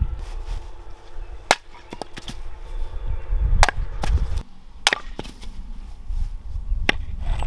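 Hatchet chopping wood: four sharp strikes spaced one to two seconds apart, with lighter knocks between them.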